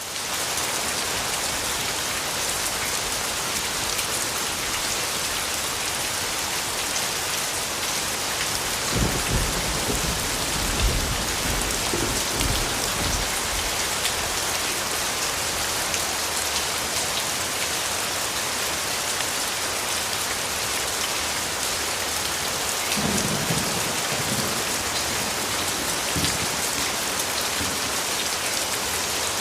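Steady rain falling, an even hiss of drops. Low rumbles come through twice, about a third of the way in and again later.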